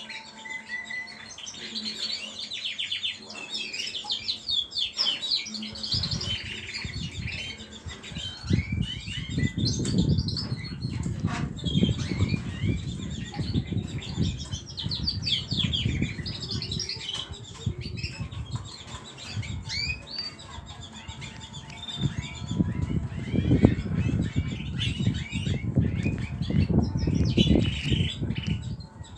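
Small pet birds chirping rapidly and continually, many short high chirps overlapping, with a low rustling that starts about six seconds in and comes and goes.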